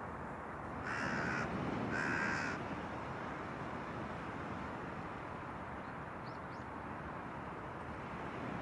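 A crow cawing twice, two harsh caws about a second apart, over the steady wash of surf and wind.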